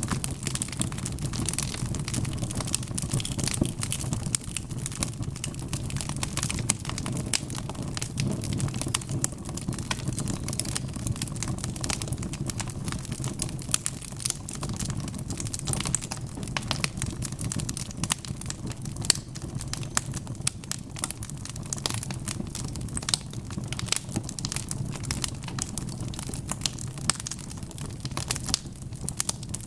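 Wood fire burning in a fireplace: a steady low roar of flames with dense, irregular crackling and popping of burning logs.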